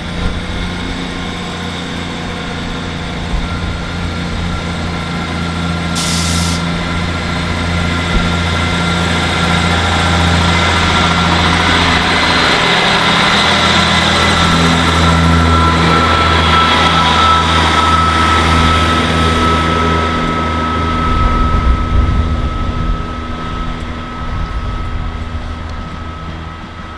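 Class 158 diesel multiple unit pulling away from the platform, its diesel engines droning with a steady low hum and a thin high whine. The sound grows louder to a peak about halfway through, then fades as the train moves off. A short hiss of air comes about six seconds in.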